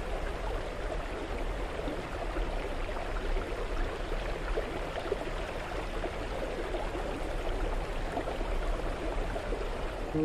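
Steady rush of running water, such as a stream.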